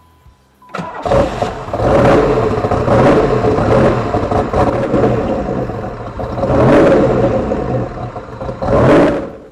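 Turbocharged Pontiac Fiero engine running and revved up and down several times, then cut off abruptly near the end. It has just had a coolant sealant added to stop it from pushing coolant out as steam through a suspected cracked head or block.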